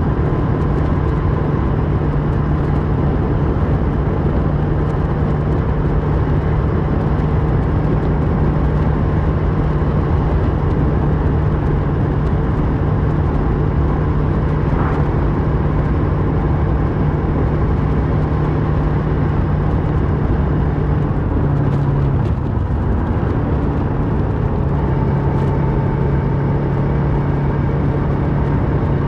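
2008 Kawasaki Versys 650's parallel-twin engine running through a Mivv slip-on exhaust at steady cruising revs. Its revs dip briefly about 22 seconds in, then hold steady a little lower.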